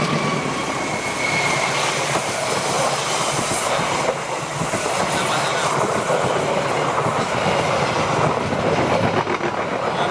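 A passenger train passing fast on the near track, close by: the locomotive clears at the start and then the carriages run past with a steady, loud rush of wheels on the rails.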